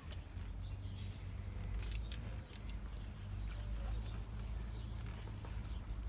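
Power drill running steadily, boring a shallow pilot hole for a screw into a new wall batten; a low steady motor hum that dips briefly about two and a half seconds in.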